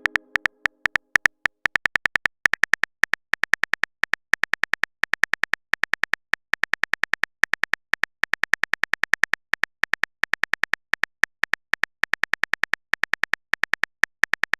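Phone keyboard typing sound effect: rapid, uneven clicks, several a second, as a text message is typed out.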